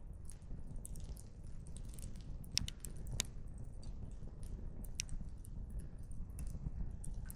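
Wood fire crackling, with irregular sharp pops of burning firewood, a few louder snaps standing out, over a steady low rumble.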